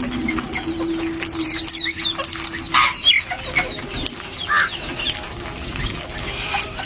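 Several aviary birds calling at once: many short falling chirps and whistles, with a low steady note held through the first two seconds or so.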